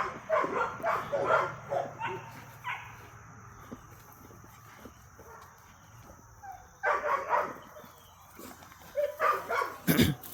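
Dogs barking and yipping in play, in short bursts: a run of them over the first few seconds, then two more clusters near the end.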